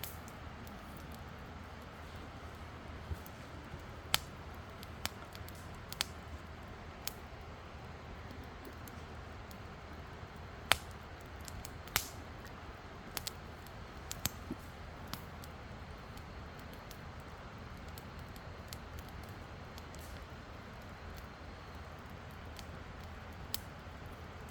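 Wood campfire crackling: irregular sharp pops and snaps, about fifteen in all and most of them in the first half, the loudest two near the middle, over a steady low rumble.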